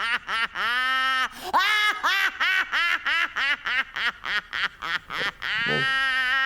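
A cartoon character's voice babbling in quick, high, sing-song nonsense syllables, about five a second, with a longer held sound about a second in and another near the end.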